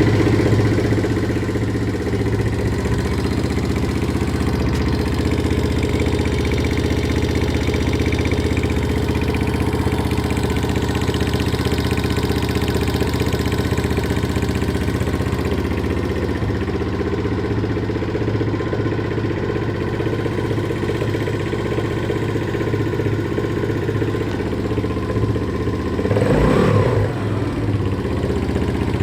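Viper motorcycle engine idling steadily with valve tapping, the valve knock the owner is showing. About 26 seconds in it is briefly revved up and drops back to idle.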